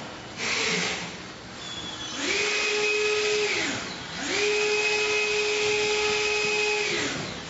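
Small electric motor spinning up, running at a steady speed and winding down, twice, the second run about twice as long as the first. A short burst of noise comes just before, about half a second in.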